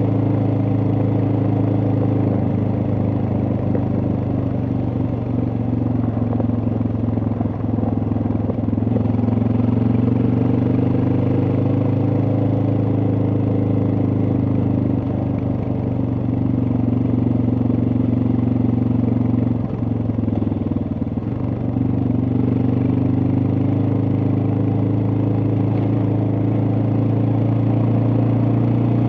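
Suzuki DR650's single-cylinder four-stroke engine running under way, its note rising and falling gently with the throttle. It dips briefly about twenty seconds in.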